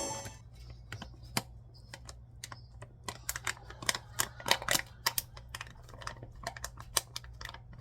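Typing on a computer keyboard: quick, irregular key clicks, with a faint steady low hum underneath.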